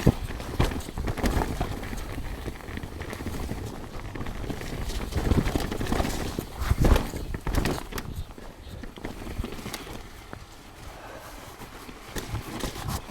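Mountain bike rattling and knocking as it rides over rough trail, tyres on dirt and roots, irregular and loudest a little past the middle before easing off.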